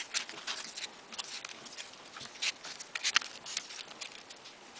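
Light paper rustling with small irregular clicks as folded paper origami modules are pushed onto a row of a 3D origami model.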